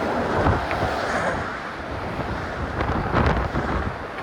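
Wind buffeting the phone's sock-covered microphone over a steady rumble of traffic, with stronger gusts about half a second in and again around three seconds.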